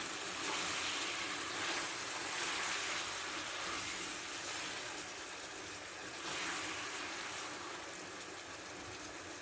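Tomato and pepper sauce sizzling in hot oil in a pan, a steady hiss that eases off slightly toward the end.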